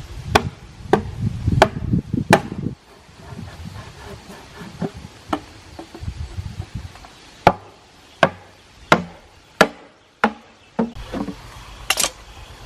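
Repeated sharp strikes of a hand tool on wood, about one to one and a half a second. There are four in the first few seconds over a low rumble, a quieter stretch with light knocks, then another run of about seven strikes from about halfway.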